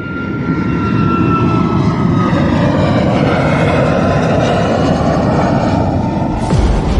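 Steady engine drone with a faint whine that drifts slowly lower, fading up at the start and giving way abruptly to a different, deeper sound about six and a half seconds in.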